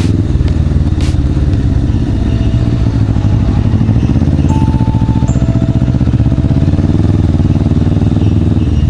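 Suzuki GS500 motorcycle's parallel-twin engine running steadily at an even pace, heard from the bike itself.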